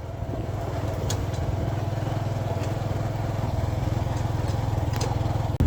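Boda boda motorcycle's engine running steadily as the bike rides along, getting a little louder in the first second; the sound breaks off abruptly near the end.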